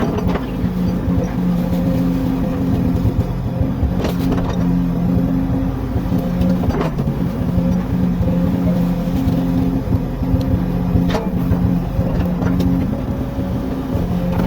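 Komatsu excavator's diesel engine running steadily at a constant pitch, with a few short sharp knocks along the way.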